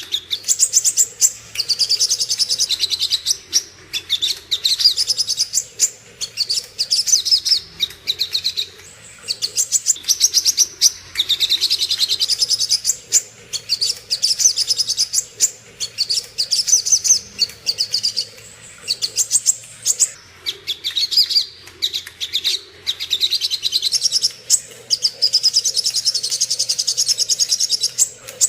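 Sogon bird giving its fighting call: fast runs of high, rapidly repeated chattering notes in phrases of a second or two, broken by short pauses.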